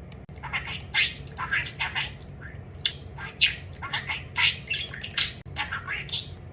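Budgerigar chattering: a rapid, unbroken run of short chirps and squawks.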